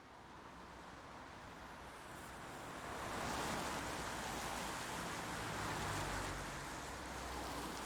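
Steady rain falling, an even hiss that swells louder about three seconds in.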